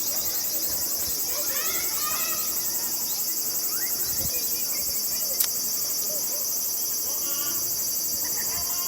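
Steady high-pitched insect chorus with an even pulse, over faint distant shouting voices of players and spectators. A single sharp click about five and a half seconds in.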